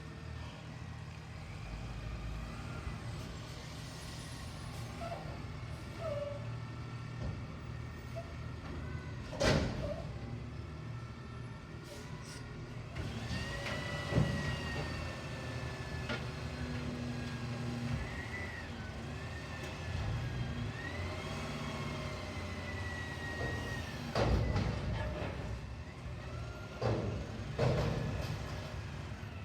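Garbage truck running steadily while it lifts and empties a dumpster, with a whine that rises and falls through the middle. Several loud clanks and bangs, the loudest about a third of the way in and near the end.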